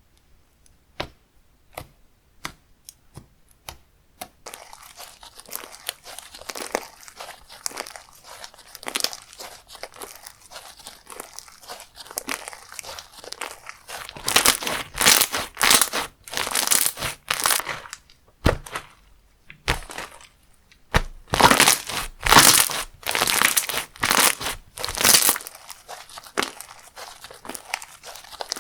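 Slime being pressed, stretched and poked by hand, with sticky crackling and small pops. There are a few separate clicks at first, then dense crackling, louder in two spells around the middle and two-thirds in.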